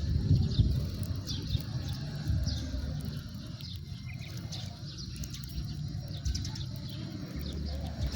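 House sparrows chirping: many short, quick falling chirps repeated throughout, over a low rumble.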